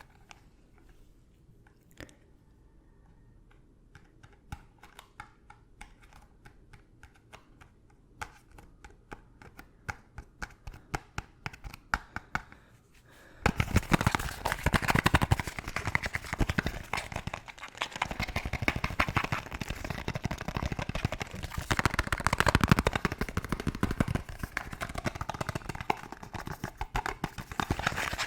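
Tapping on an object, sparse and light at first, then quicker and louder. About halfway in it gives way suddenly to fast, aggressive scratching, dense and much louder.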